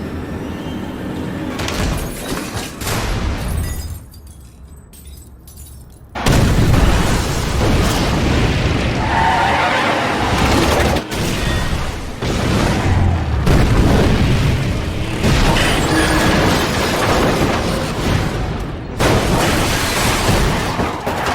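Film action-scene soundtrack: loud crashing and booming with breaking glass, mixed with film score music. A quieter lull of about two seconds comes near the start, then the dense crashing noise runs on loudly.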